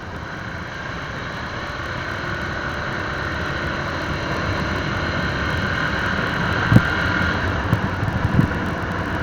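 Motorcycle running along the road: steady engine and road noise that builds gradually over the first few seconds, with a few short knocks near the end.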